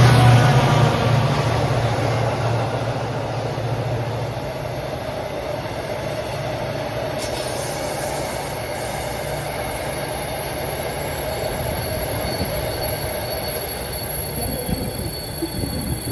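Diesel-hauled freight train of acid wagons running through a station: the locomotive's engine hum fades over the first few seconds, leaving the steady rumble of the wagons' wheels on the rails. Thin high steady tones come in near the end.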